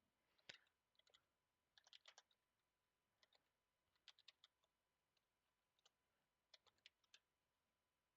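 Faint computer keyboard typing: small clusters of keystrokes with pauses between them.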